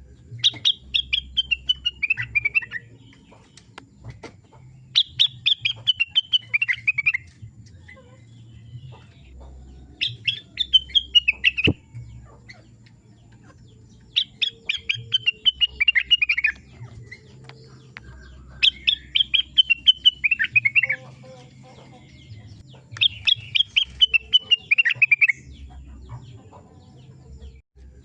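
Burung rengganis song: a rapid series of sharp high notes that falls in pitch over about two seconds, repeated six times with pauses of a couple of seconds between phrases.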